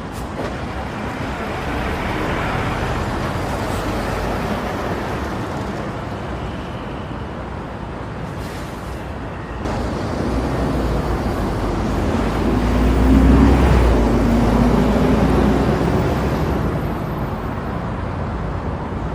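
Heavy diesel tractor engine running and revving. It grows louder about two-thirds of the way through, then eases off.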